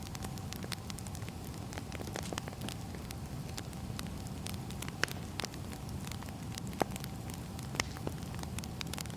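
Burning firewood crackling and popping irregularly over a steady low rumble, with a few sharper pops about five, seven and eight seconds in.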